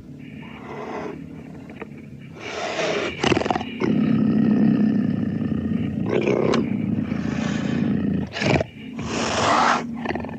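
A series of animal roar and growl sound effects: several loud, rough bursts, the longest near the middle, over a steady low drone.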